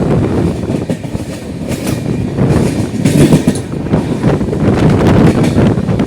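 Shantiniketan Superfast Express running, loud, with a steady low rumble of the moving train and a fast, irregular clatter of wheels over the rails.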